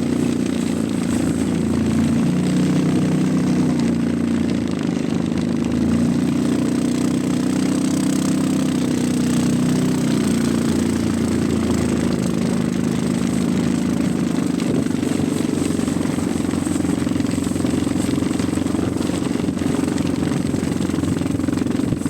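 ATV engine running steadily, its pitch rising and falling a little.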